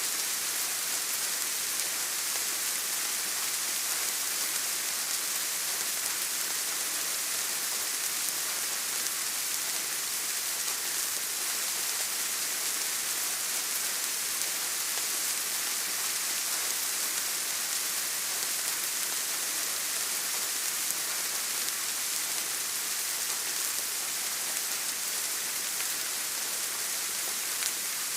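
Steady rain, an even hiss that holds without letup and sits mostly in the high pitches, with little low rumble.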